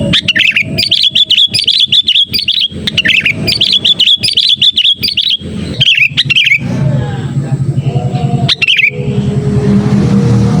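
Sooty-headed bulbul (kutilang) calling in quick, loud, repeated chirping phrases for about six seconds, then once more briefly near the end. A low steady hum underlies the second half.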